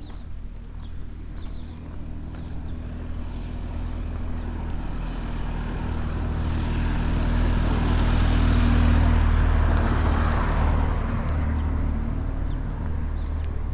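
A car passing slowly: a steady engine hum with a rushing tyre noise that grows louder to a peak about nine seconds in, then fades.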